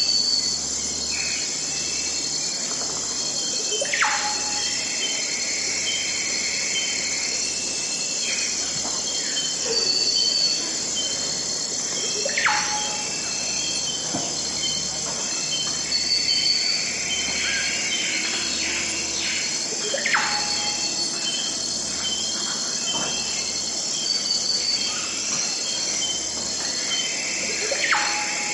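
Forest ambience: a steady high chorus of insects such as crickets, with birds calling over it. One call is a loud whistle that slides steeply down and repeats about every eight seconds, among shorter high chirps.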